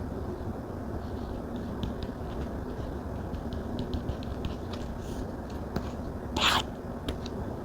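Stylus tapping and sliding on a tablet's glass screen: many light, scattered clicks, with one louder scratchy stroke about six and a half seconds in, over a steady low background hiss.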